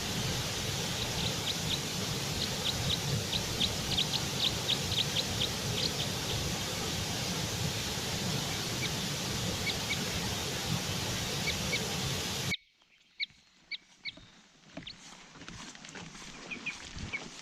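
Small birds chirping in quick runs of short, high notes over a steady hissing rush. About twelve seconds in the rush cuts off suddenly, leaving a quieter background with scattered chirps.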